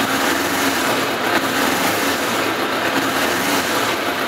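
2002 Suzuki GSX750F Katana's inline-four engine idling steadily shortly after a cold start; it is a little cold-blooded, still warming up.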